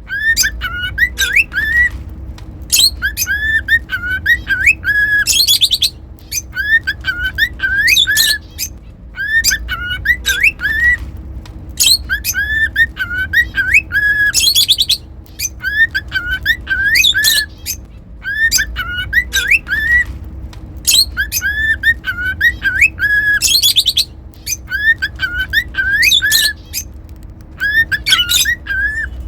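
Cockatiel whistling a short tune of gliding notes over and over, a phrase every two or three seconds, broken now and then by a shrill chirping call.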